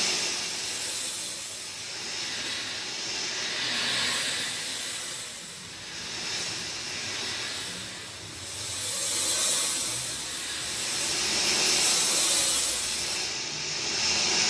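Rain falling steadily: an even hiss that swells and eases every few seconds.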